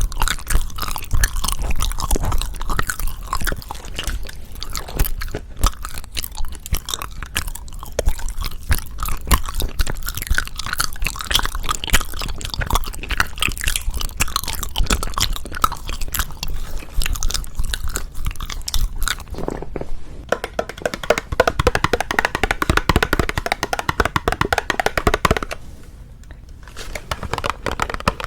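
Close-miked chewing and biting of hwagwaja (Japanese-style sweets), a steady run of wet chewing clicks with crunching. The chewing briefly eases off about 26 seconds in.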